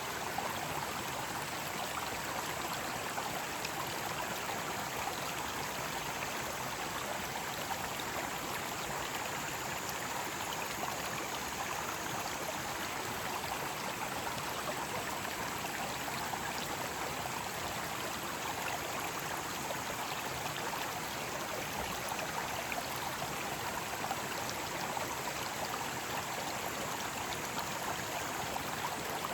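Mountain stream water rushing over rocks in a steady, unbroken wash.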